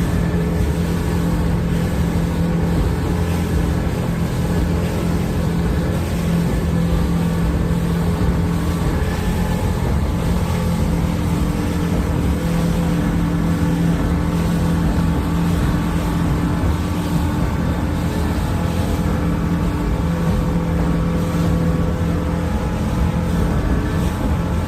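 Motorboat engine running steadily at a constant speed, with a steady low hum and the rush of water and air around the hull.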